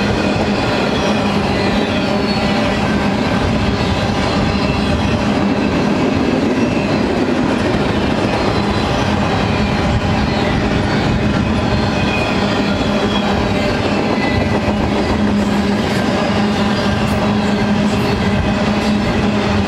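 A double-stack container freight train's loaded well cars rolling past, steel wheels on the rails, loud and steady, with a constant low hum underneath.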